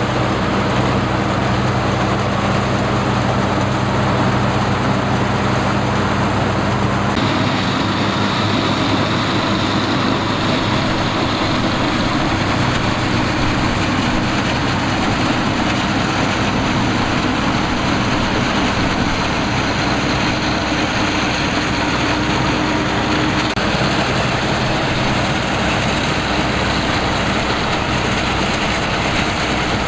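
Rice combine harvester running steadily with a low engine drone. About seven seconds in the sound changes abruptly to a rougher, noisier running.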